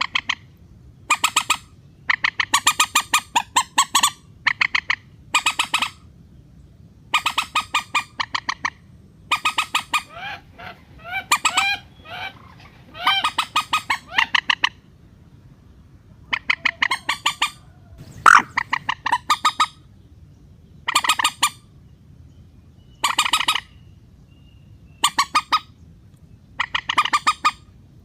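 Recorded calls of a mandar, a rail or swamphen-type waterbird, used as a trapping lure. The calls come as repeated bursts of rapid, harsh clucking notes, each burst lasting up to about two seconds with short pauses between. Around the middle there is a run of short upward-sliding notes.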